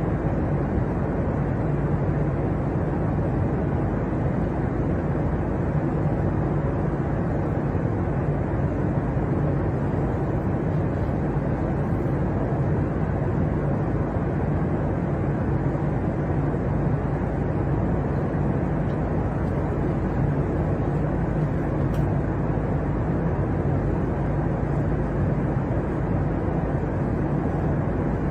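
Steady airliner cabin noise: the even rumble of engines and rushing air, with a low hum running underneath.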